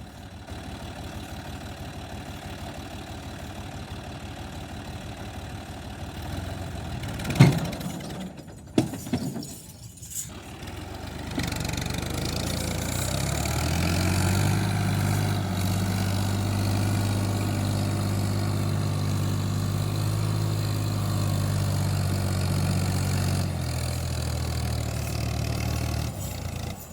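New Holland Fiat tractor's diesel engine idling, with a sharp knock about seven seconds in, then revving up and running hard at steady high revs for about ten seconds before easing off near the end: the tractor working under load to pull free of the mud.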